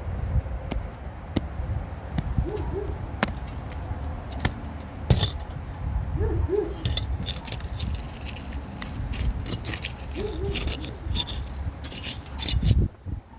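Old asphalt shingle tabs being pried loose from their adhesive seal strips: crackling, scraping and small metallic clicks, denser from about halfway in, over a steady low rumble. A dove coos a short two-note call about every four seconds.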